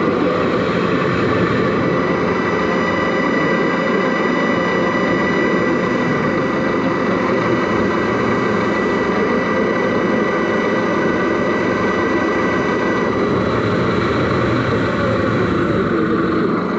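RC model Mercedes Actros SLT truck running, heard from inside its cab: a steady loud mechanical drone with a constant high whine.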